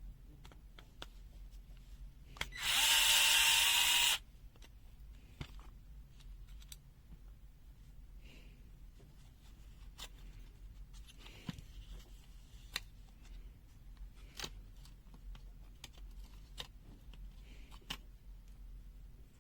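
A small power tool's motor runs in one loud burst of about a second and a half, its pitch rising slightly, near the start. After it come scattered light clicks and taps of small parts being handled.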